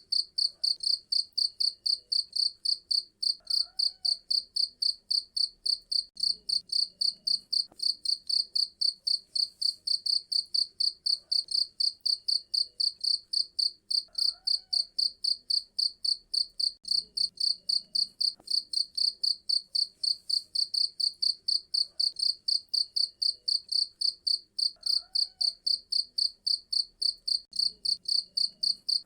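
Cricket chirping steadily, loud, high and clear, about three chirps a second without a break. A much fainter lower call recurs about every ten seconds in the background.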